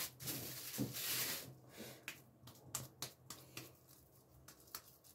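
Hands patting and slapping a raw ground-beef hamburger patty between the palms, a string of sharp, irregular slaps after a soft rustle at first.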